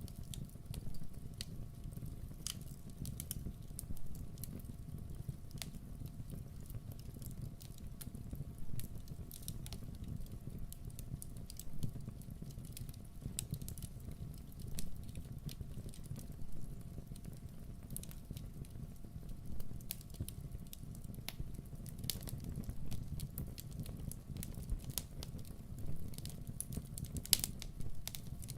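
Wood campfire burning: irregular sharp crackles and pops over a steady low rumble of the flames.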